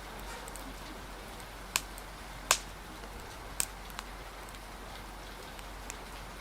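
Steady rain hiss with a few sharp pops from a crackling wood fire, the loudest about two and a half seconds in.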